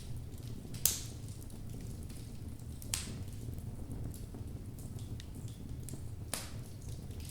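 Logs burning in a fireplace: a steady low rumble of the fire with sharp crackles and pops, the loudest about a second in, others about three and six seconds in.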